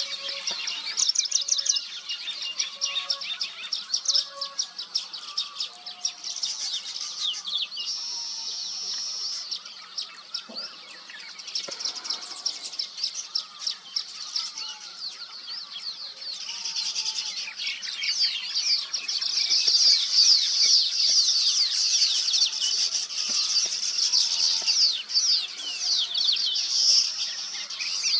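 A weaver bird colony chattering: many birds give rapid, overlapping high chirps and buzzy trills, busiest in the second half, with short lower notes scattered underneath.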